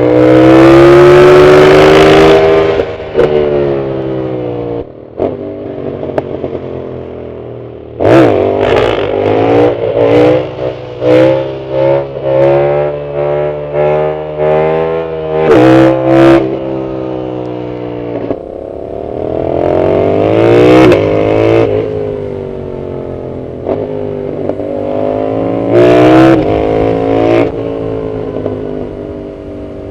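Yamaha MT-07's CP2 parallel-twin engine with a full aftermarket Arrow exhaust, accelerating hard and revving up and down through the gears. In the middle comes a quick run of short revs rising and dropping one after another.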